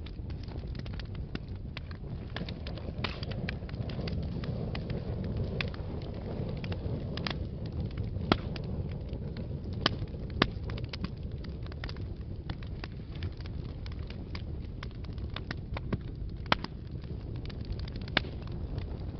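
Wood fire burning in a fireplace: a steady low rumble of flames with constant crackling and scattered louder pops.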